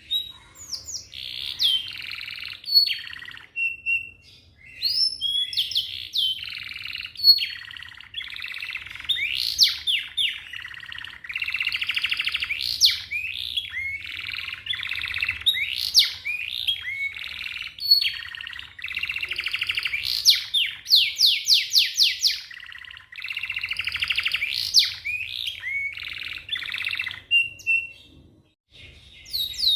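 A domestic canary sings a long, fast song of rolling trills and repeated notes. About two-thirds of the way through comes a rapid run of quick downward-sweeping whistles. The song breaks off briefly a few times.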